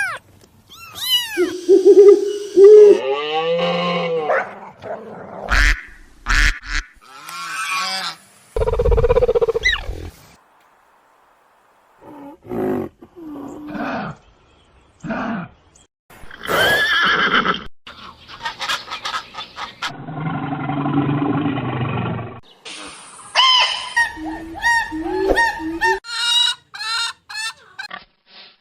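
A rapid sequence of different animal calls, each a second or two long, cut one after another. Some calls glide up and down in pitch and some are rougher and lower, with a brief pause about ten seconds in.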